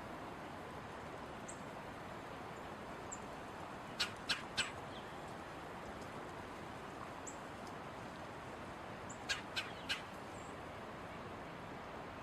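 Red-bellied woodpecker giving two quick runs of three sharp, clicking notes, about five seconds apart, over a steady outdoor background with a few faint high chirps.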